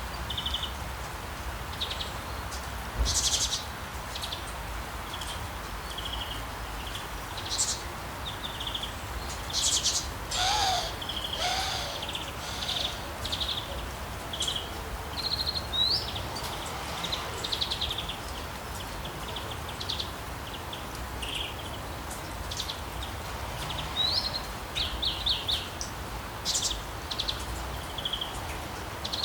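Several songbirds chirping and trilling in short, repeated high calls, with a few lower gliding calls about ten seconds in, over a steady hiss of falling rain.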